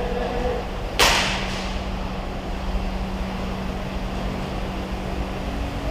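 A single sudden sharp crack about a second in, trailing off over about half a second, over a steady low rumble.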